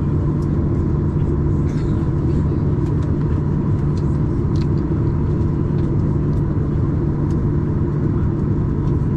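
Steady cabin noise of a Boeing 737-800 airliner: an even rumble of engines and airflow with a constant hum.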